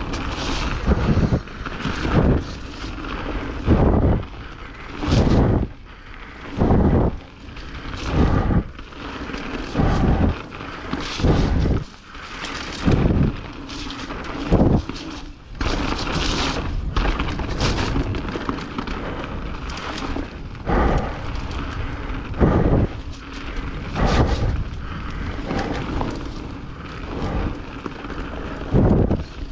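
Ride noise from a mountain bike on a wet trail, heard through the bike's or rider's own camera: a steady rumble broken by loud rumbling bursts every second or two as the bike rattles and jolts over the ground and air buffets the microphone.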